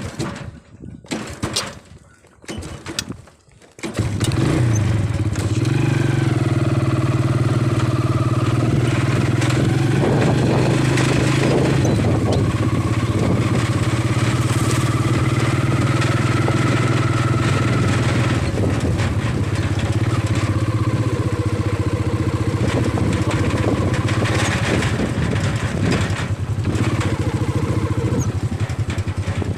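A few knocks, then a motorcycle engine starts about four seconds in and runs steadily, with small rises and falls in pitch.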